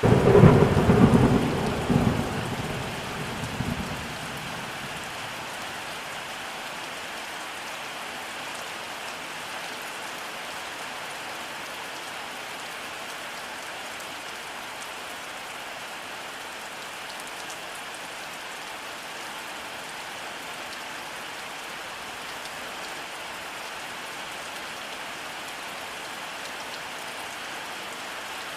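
Steady rainfall with a rumble of thunder right at the start that swells for a couple of seconds and fades out about four seconds in, leaving the even patter of rain.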